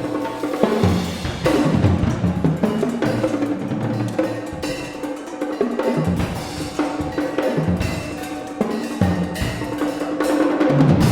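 Percussion trio playing a fast, dense passage of struck drums and other percussion, building to a loud final stroke near the end that is left to ring.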